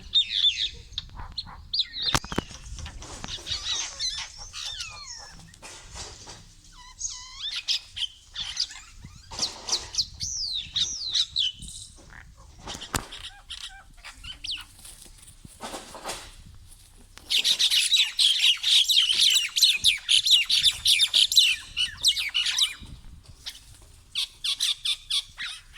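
Small birds fighting, calling in rapid high chirps and sweeping squeaks that rise and fall in pitch. A dense run of fast chirps lasts about five seconds after the midpoint, with another cluster near the end.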